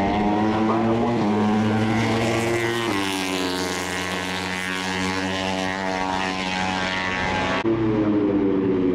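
Moto3 race bikes' 250cc single-cylinder four-stroke engines running at high revs with a sharp, near-steady pitch. The sound changes suddenly about three seconds in and again shortly before the end.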